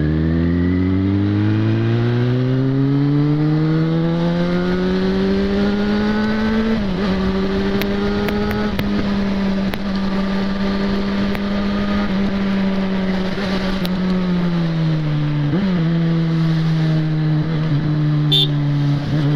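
Yamaha XJ6's inline-four engine pulling hard as the bike accelerates, its note rising for several seconds, then holding steady at cruising speed and dropping lower as the bike slows near the end, over wind and road noise.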